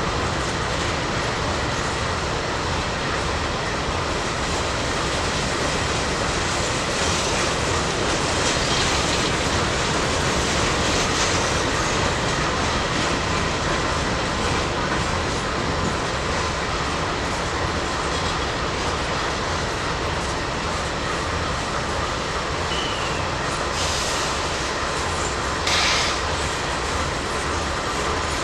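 A train's railcars rolling steadily past with a continuous rumble and clatter of wheels on the rails, and a faint high wheel squeal. There is a brief louder burst near the end.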